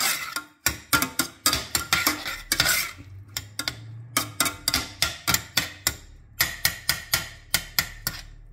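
A utensil stirring garlic and onion frying in olive oil in a pan, clacking and scraping against the pan in a quick, steady rhythm of about four strokes a second.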